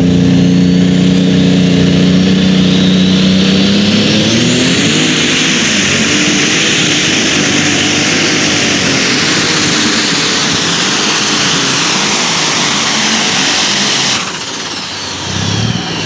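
A competition pulling vehicle's engine runs at full throttle under load, with a high whine that climbs in pitch during the first few seconds and then holds steady. Near the end the engine is let off suddenly and the whine falls away as the run finishes.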